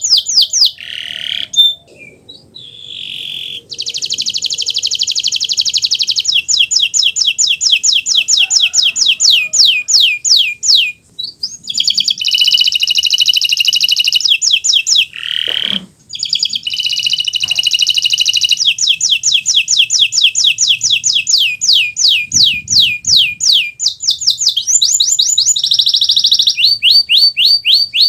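Kenari Nusantara canary in full song: long rolling trills of fast, repeated high notes mixed with buzzy held phrases, broken by a few short pauses.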